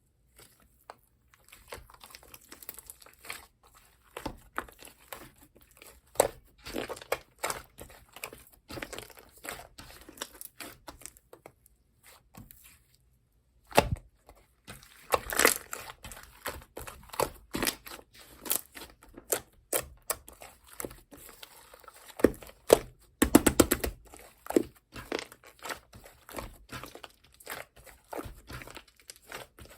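Slime being squeezed, stretched and pressed by hand, making many small sticky clicks and crackling pops. There is a short pause near the middle, and later a fast run of pops.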